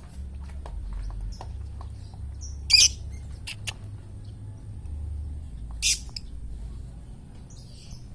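Lovebirds giving short, high-pitched chirps, with two loud shrill calls about three and six seconds in.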